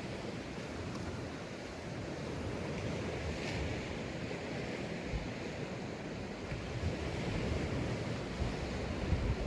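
Sea waves breaking and washing onto a sandy beach: a steady wash of surf that swells slightly in the second half.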